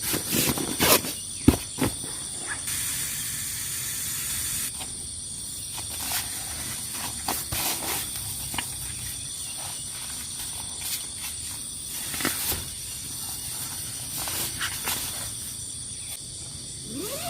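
Insects droning steadily in high-pitched bands, with scattered clicks, knocks and rustles of camp handling; one sharp click about a second and a half in, and a brief hiss a few seconds in.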